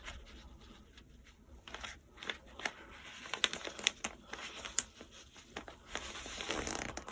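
A sheet of paper being folded in half lengthwise and creased by hand: scattered rustles and crackles, with a longer rustle near the end.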